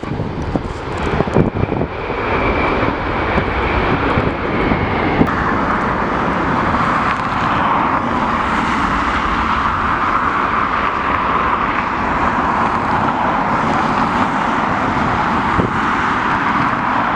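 Jet airliner's engines running with a steady rush, a thin high whine heard over it for a few seconds near the start. Wind buffets the microphone in the first couple of seconds.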